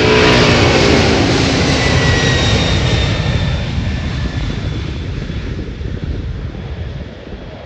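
An airliner's engines passing close and then moving away, loud at first and fading steadily, their tones gliding down in pitch as the aircraft recedes.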